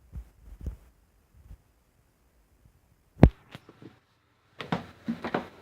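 A mostly quiet room with a few soft knocks, then one sharp thump a little over three seconds in.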